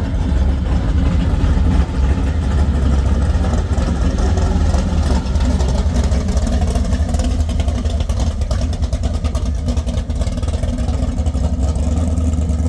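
A vehicle engine running with a steady, deep rumble.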